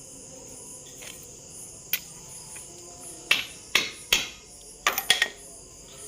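Light hammer taps driving a new bush into the base of a mixer-grinder jar: about six sharp knocks, some in quick pairs, with a steady high chirring behind.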